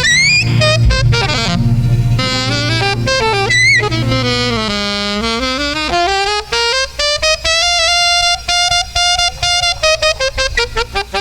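Music with a lead saxophone playing a melody with slides and bends over a backing band. About halfway through the backing drops away, leaving a long held note and then a run of short, detached notes.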